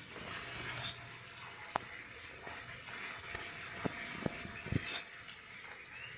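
A bird gives two short, high, rising chirps, one about a second in and one near the end, with a few faint clicks between them.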